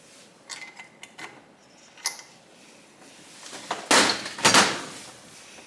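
Metal hand tools clicking against a motorcycle engine while its spark plug is taken out, with a sharp click about two seconds in and two short, loud rasping bursts about four seconds in.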